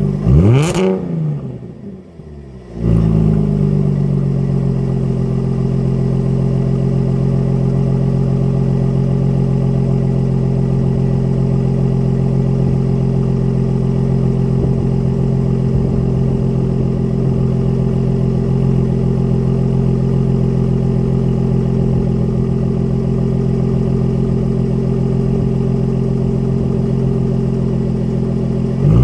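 The 2016 Jaguar F-TYPE S's supercharged V6 is blipped once: the pitch rises sharply and falls back. Then, a few seconds in, it steps up and holds a steady, loud note at raised revs until it starts to climb again at the very end.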